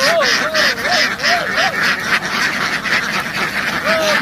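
A large flock of domestic ducks quacking all at once in a loud, dense, continuous chorus. Over it, a single wavering call rises and falls repeatedly during the first couple of seconds and once more near the end.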